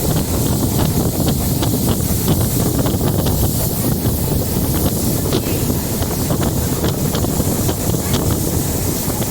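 Wind rushing over the microphone on a moving diesel multiple-unit (DEMU) passenger train, over the train's steady running noise, with faint ticks here and there.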